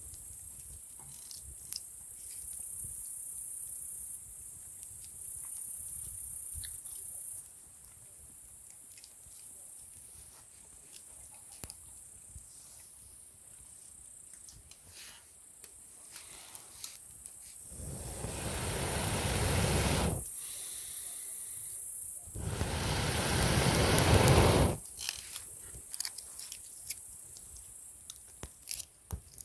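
Wood campfire crackling with scattered small pops. Twice, air is blown into the fire through a fire-blowing pipe (hifukidake), in two long rushes of about two seconds each; the second is louder.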